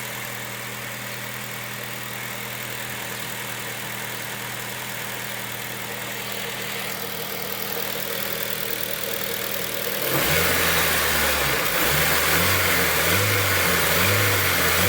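Honda K20 inline-four engine of an EP3 Civic Type R idling steadily with its idle air control valve freshly cleaned and refitted. About ten seconds in the sound turns louder and uneven.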